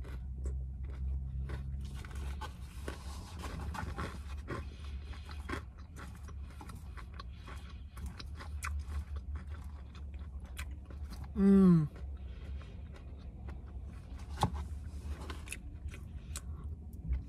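Close-up chewing of a mouthful of salad with bacon, tomato and parmesan crisps: wet chewing with irregular small crunches and mouth clicks. About eleven seconds in there is one brief hum from the eater, falling in pitch.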